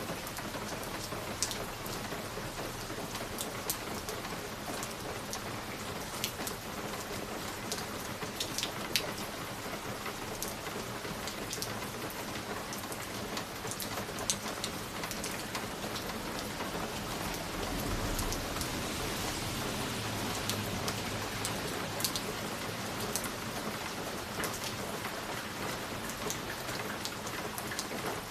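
Fireplace ambience: scattered sharp crackles and pops from a wood fire over a steady, even, rain-like hiss. A low rumble swells and fades a little past the middle.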